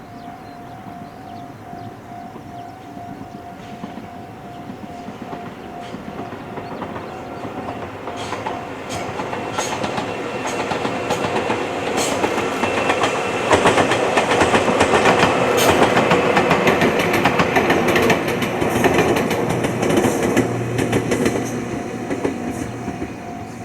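Ohmi Railway electric train passing close by. The wheels clack over the rail joints as it approaches, passes at its loudest about halfway through, and fades away. A level crossing warning bell dings steadily about twice a second before the train arrives and can be heard again as it goes.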